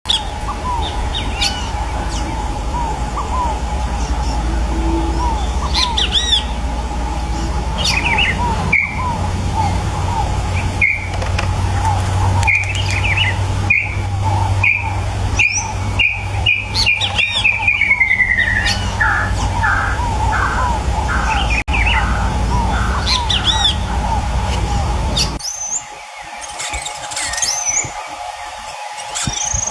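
Several wild birds calling and singing over one another. A rapid series of whistled notes slides down in pitch midway. A steady low rumble runs underneath and cuts out near the end.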